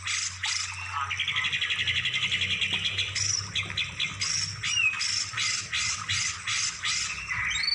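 Songbird song played as a masteran tutoring recording: rapid repeated high notes about five a second, broken by a fast, dense trill between about one and three seconds in. A faint low hum runs underneath.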